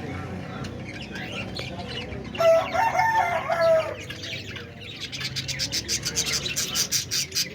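Budgies chirping and chattering, with one loud, drawn-out pitched call about two and a half seconds in that lasts over a second. From about five seconds in, a fast run of short, high chirps follows, about five a second.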